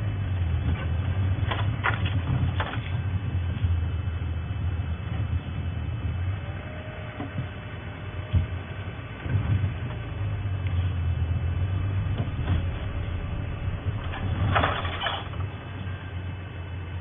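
Safari game-drive vehicle's engine running as it drives along a bush track, with a faint rising and falling whine and occasional knocks and rattles from the bumpy ride.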